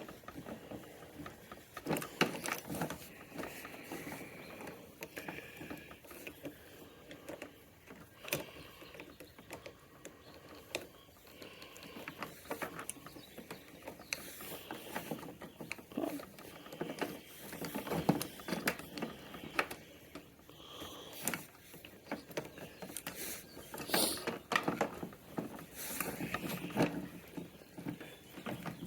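Irregular clicks, taps and rattles of small metal scooter parts and cables being handled and hooked into place at the handlebar.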